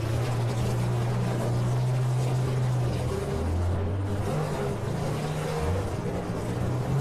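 Demolition-derby minivan engines running and revving, their pitch stepping up and down a few times.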